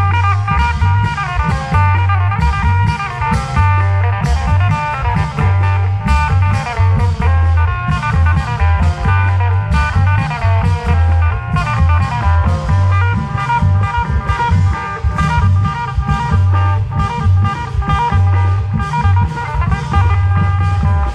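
Isan klong yao long-drum band music: drums beating a steady rhythm under a plucked-string melody.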